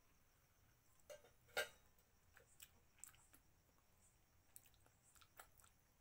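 A person eating by hand and chewing. Faint, irregular mouth clicks and smacks, the sharpest one about one and a half seconds in.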